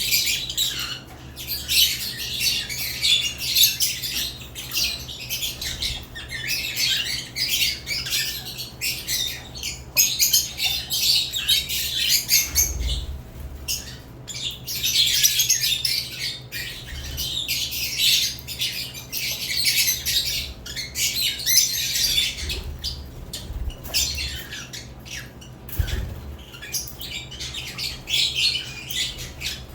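Several caged lovebirds chattering and squawking continuously, a dense stream of short, shrill, high-pitched calls with a few brief lulls, over a steady low hum.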